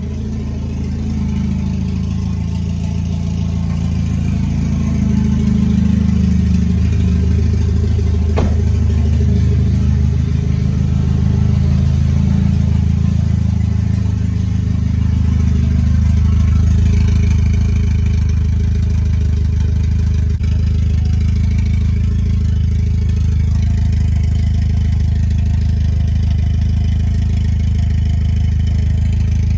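Mitsubishi Lancer Evolution X engine running steadily, building a little in level over the first few seconds. The turbo seal is leaking, so the engine is burning oil and smoking.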